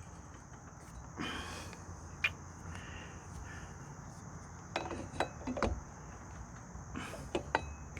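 Scattered light metallic clicks and taps of hand tools on ATV parts, a few small knocks close together about five seconds in. Under them runs a steady high insect trill.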